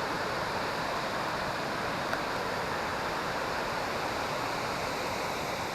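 Waterfalls rushing: a steady, even wash of falling water.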